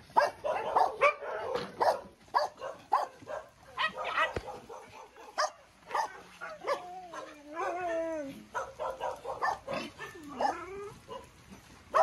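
Many dogs barking in short, overlapping barks. About six seconds in, several dogs join in long, wavering howls that overlap for a couple of seconds, and one more howl dips and rises about ten seconds in.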